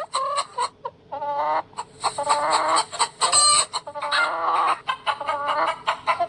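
Domestic hen clucking: a quick run of short clucks with longer drawn-out calls in the middle.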